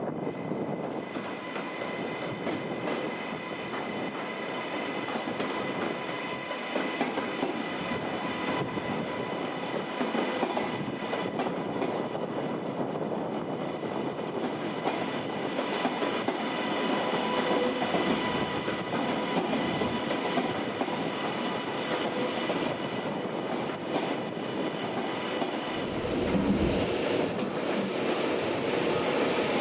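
Steady running noise of a vehicle in motion, with many small clicks and two faint steady tones throughout, and a low thump near the end.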